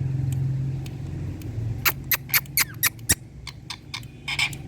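A quick run of six or seven sharp clicks in just over a second, after a low steady hum. A short rasping sound comes near the end.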